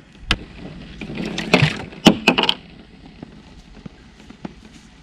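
Handling noises as cold raw chickens are moved onto a drying rack: a sharp click, then a short spell of knocks and clatter between about one and two and a half seconds in, settling to faint ticks.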